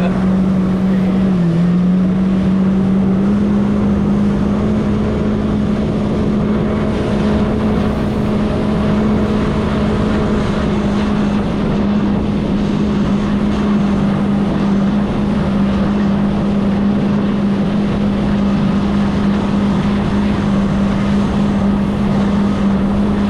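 Jet ski engine running at a steady throttle, its pitch stepping up slightly in the first few seconds and then holding even, with wind noise on the microphone.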